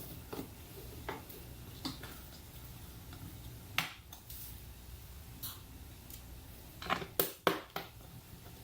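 Small metal parts and hand tools clicking and clinking as they are handled: scattered single clicks, one sharper about halfway, then a quick run of four clicks near the end, over a low steady hum.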